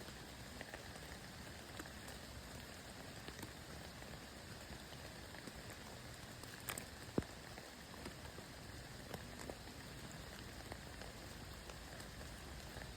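Steady light rain falling, a soft even hiss with scattered individual drops tapping. About seven seconds in there is one sharper, louder tap.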